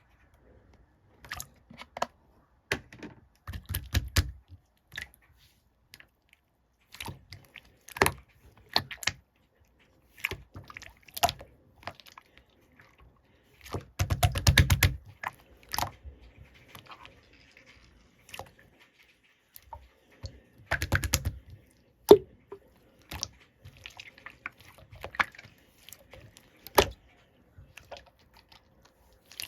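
Irregular sharp clicks and light knocks in a small room, with a quick run of rapid clicks about fourteen seconds in and another cluster around twenty-one seconds.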